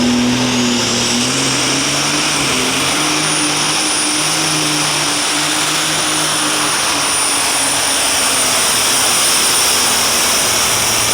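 Super stock pulling tractor's turbocharged diesel engine running flat out while pulling the sled, with a turbo whine that rises over the first couple of seconds to a high steady whistle.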